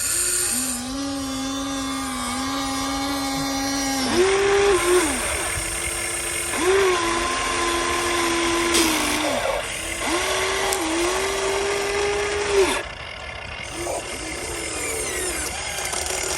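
Small electric motors of a radio-controlled model excavator whining under load in spells of a few seconds each, the pitch stepping higher about four seconds in and dipping between spells.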